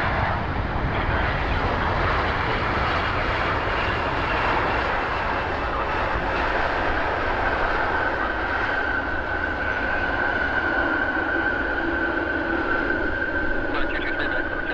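Boeing 787-9 Dreamliner's jet engines passing at close range, a steady, even rush. From about halfway through, a steady whining tone comes in over it and holds.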